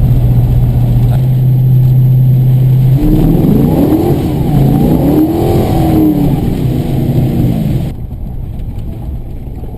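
Car running on the road, heard from inside the cabin: a steady low hum over rumbling road noise, then several seconds of tones rising and falling. The whole sound drops sharply quieter about eight seconds in.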